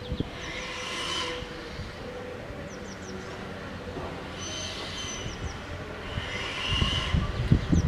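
A slow-moving train of locomotives (a steam engine and two diesels) rolling round a curve: the wheel flanges squeal in three short spells over a steady low rumble, and heavier clanks and knocks come near the end.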